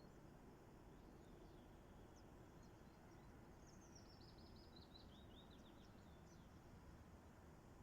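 Faint birdsong: scattered high chirps, with a quick run of rapid notes stepping down in pitch in the middle, over a low steady background hiss.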